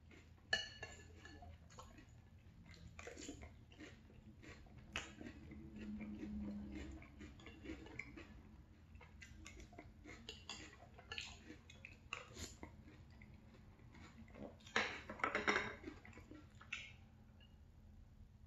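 Close-up mouth sounds of chewing cereal in milk, with a spoon scraping and clicking against a glass bowl; a cluster of louder clicks and scrapes comes about fifteen seconds in.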